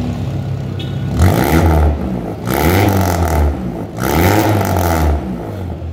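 Engine fitted with an aftermarket racing exhaust, blipped three times from idle, its note rising and falling with each rev.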